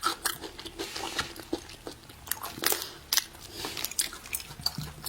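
Close-miked eating: a person biting, crunching and chewing food, with irregular crackly crunches and wet clicks.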